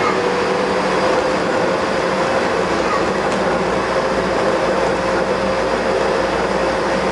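Bombardier rubber-tyred automated metro train running at speed, a steady rumble with a whine that rises slightly in pitch. This train, the uploader says, has developed abnormal running noises.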